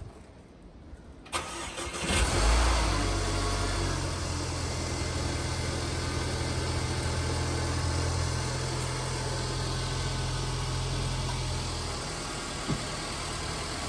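An engine starts about two seconds in and runs steadily at idle. Its low drone drops away near the end, leaving a quieter run.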